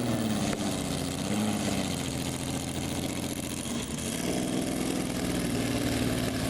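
Car engine running at low revs, its pitch swelling and easing off twice as it is driven slowly.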